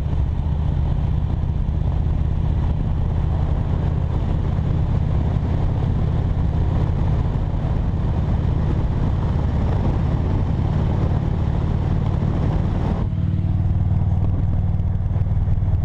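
Motorcycle engine running steadily under way, with road and wind noise; about thirteen seconds in the wind noise drops while the engine carries on.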